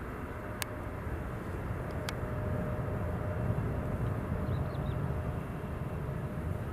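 Steady rumbling noise inside a Boeing 777-300ER, from its GE90 engines and the airflow, with a faint steady hum and two sharp clicks, the first about half a second in and the second about two seconds in.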